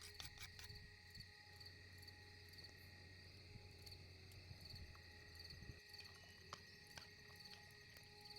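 Faint chorus of crickets chirping in steady, evenly repeated pulses. A low hum underneath stops about two-thirds of the way in, and there are a few light clicks.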